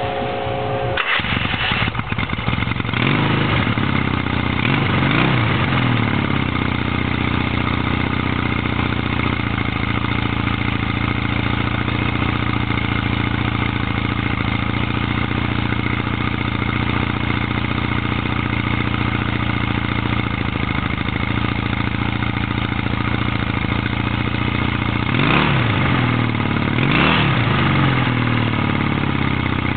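1981 Yamaha XS650 parallel-twin engine through its stock exhaust, catching about a second in and then idling steadily. The throttle is blipped twice a few seconds in and twice near the end, the pitch rising and falling back each time.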